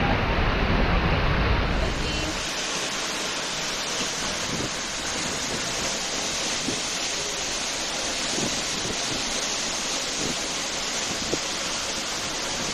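Seljalandsfoss waterfall's falling water: a steady, even rush of noise, with wind buffeting the microphone for the first two seconds.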